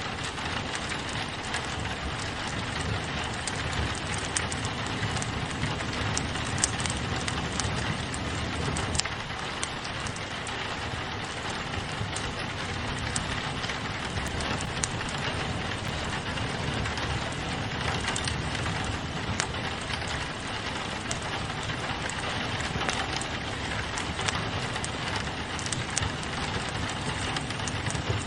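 Steady rain pattering on a window, mixed with a wood fire crackling, with scattered sharp pops throughout.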